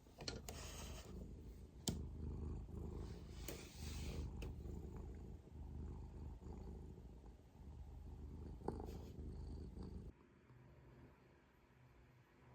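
Munchkin cat purring close to the microphone, a steady low rumble with a few soft clicks and rustles over it. The purring cuts off about ten seconds in.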